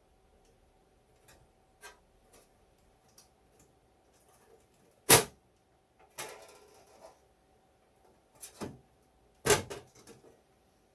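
Handling noise from taking apart an HP 3458A multimeter's casing: a few sharp knocks of hard parts set down or knocked together, the loudest about five seconds in and another about nine and a half seconds in, with a short scraping rustle between and faint ticks.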